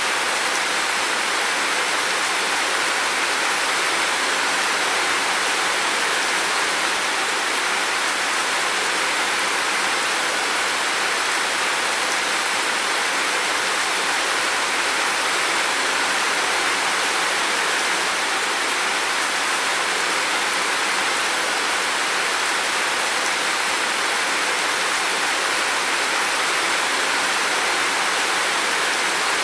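Heavy rain falling steadily, an even, unbroken hiss of water with no thunder or pauses.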